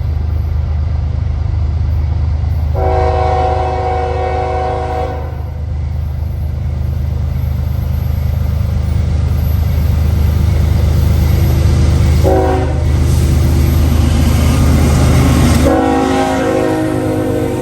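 Diesel freight locomotive running close by with a heavy engine rumble, blowing its chime horn: a long blast about three seconds in, a short blast about twelve seconds in, and another long blast starting near the end, the pattern of a grade-crossing signal.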